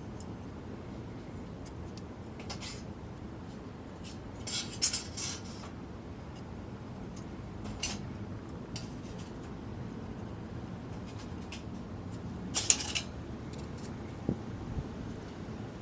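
Metal cookware and utensils clinking and scraping in a few short knocks, over a steady low background noise. The loudest clinks come in two clusters, a third of the way in and again past three quarters.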